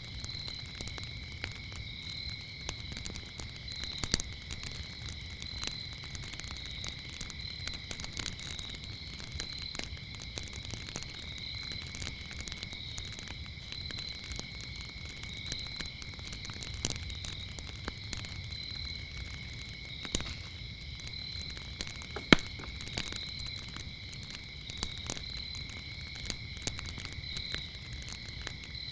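Wood fire crackling, with scattered sharp pops over a low steady rustle; one pop about three-quarters of the way through is much louder than the rest. Behind it, crickets chirp in a steady high trill with an even pulse.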